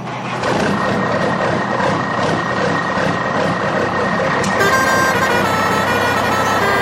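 Steady engine-like rumble with a constant high whine, joined about two-thirds of the way in by a stepping electronic beeping tune, typical of a toy vehicle's electronic sound effects.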